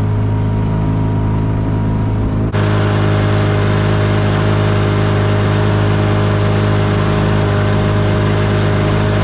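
Motorboat engine running at a steady speed with a strong low hum. About two and a half seconds in, the sound changes abruptly, with more hiss on top of the hum.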